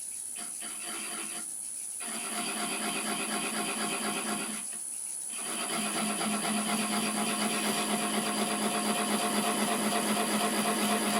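Wood lathe spinning an oak blank while a carbide turning tool cuts it, a steady rhythmic scraping with a hum-like tone. The cutting breaks off briefly about four and a half seconds in, then starts again louder.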